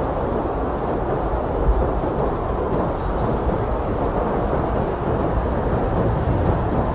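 Blizzard wind blowing steadily with a deep, rumbling roar and no high whistle.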